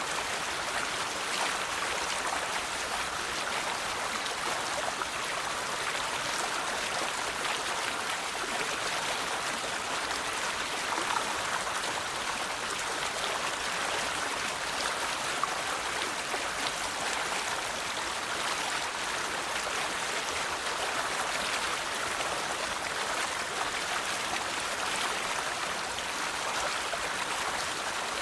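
River water flowing and babbling steadily over stones, an even rushing with fine splashes throughout.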